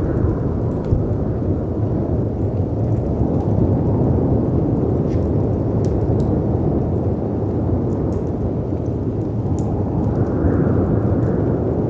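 Layered storm ambience: a steady low rush of howling wind and crashing sea waves, swelling about ten seconds in, with scattered sharp pops and crackles from a wood fire.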